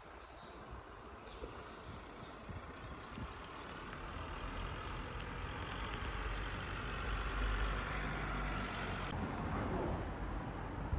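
A motor vehicle running, its rumble building slowly and then easing off near the end, with small birds chirping now and then.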